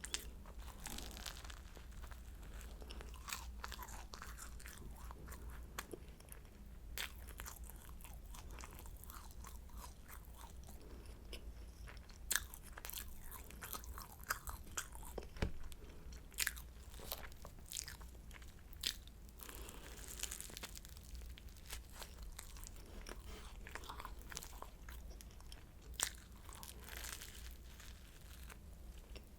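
Close-miked eating of flaky croissant: bites crackling and crunching through the pastry, then chewing, with sharp crackles at irregular intervals. A faint low hum runs underneath.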